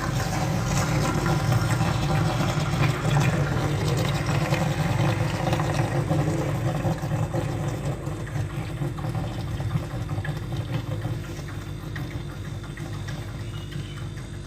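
Refrigerator making a steady rushing sound from the compressor side just after its door is shut, like water starting to pour, over a low hum, fading gradually in the second half. The owner puts it down to a vacuum forming inside as the door closes and drawing outside air in, not a fault.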